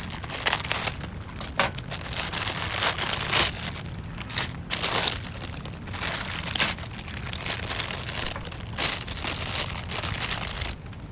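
Irregular crinkling and crackling, with many short sharp crackles, which cuts off abruptly near the end.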